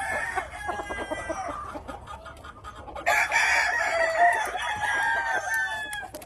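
Gamefowl roosters crowing, with clucking. A loud stretch of overlapping long crows starts about three seconds in.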